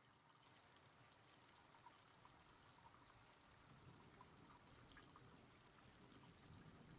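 Faint light rain: a steady hiss with small scattered drips, growing slightly louder toward the end.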